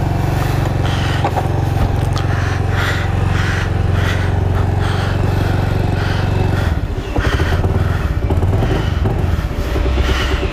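Motorcycle engine idling on choke while warming up from cold. About two-thirds through, the steady note breaks up and turns uneven.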